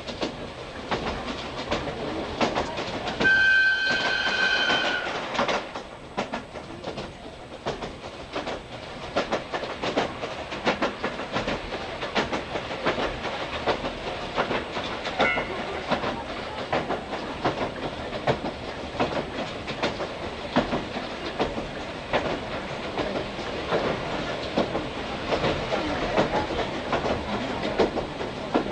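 Inside an old JNR passenger coach running behind its DE10 diesel locomotives: steady running rumble with wheels clicking over rail joints throughout. About three seconds in the locomotive's whistle sounds once, high-pitched, for about two seconds, and a brief faint toot follows near the middle.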